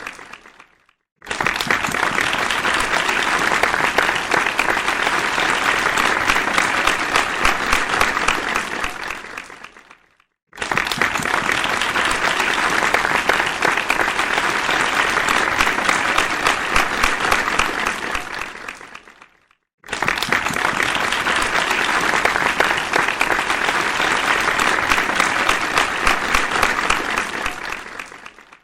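Applause in three separate rounds of about nine seconds each: each one starts suddenly at full level and fades away, with a brief silence before the next.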